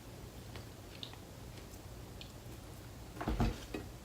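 Faint mouth sounds of someone eating chicken wings: a few small clicks of chewing and picking meat off the bone, with one short louder thump about three seconds in.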